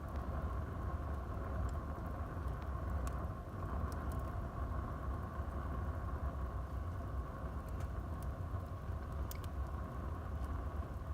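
Wood fire burning in a fireplace: a steady low rumble with a few sharp crackles from the burning wood.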